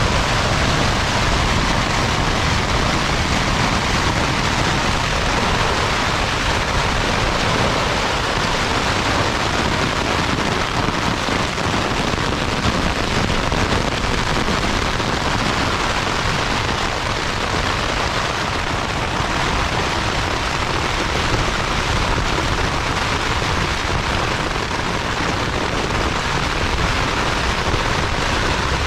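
Heavy rain in strong wind: a loud, steady, dense hiss with a low, fluttering rumble underneath.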